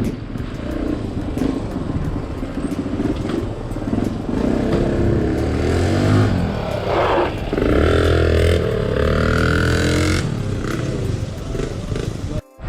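Honda XR150L's single-cylinder engine running on the move, revving up in pitch about halfway through and then holding a steady note. The sound cuts out briefly just before the end.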